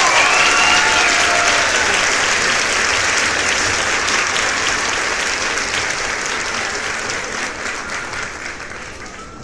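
Crowd applause, loud at first and slowly fading away, with a few cheering voices over it at the start.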